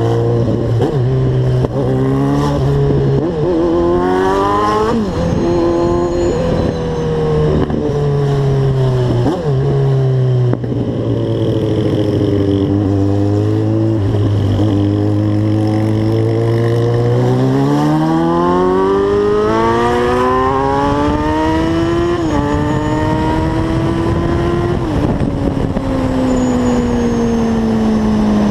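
Motorcycle engine on the move, its pitch holding steady while cruising, then climbing hard through the gears in the second half, each climb cut by a sudden drop at the upshift, and falling slowly as the throttle eases off near the end.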